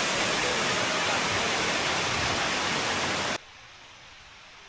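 Steady rush of water, an even hiss spread from low to very high pitches. It cuts off abruptly a little over three seconds in, leaving only a faint hiss.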